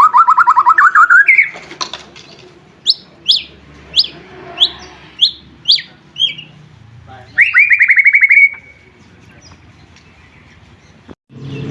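White-rumped shama (murai batu) in full song: a rapid trill rising in pitch at the start, then a run of about eight sharp downslurred whistles, then another fast trill about seven seconds in.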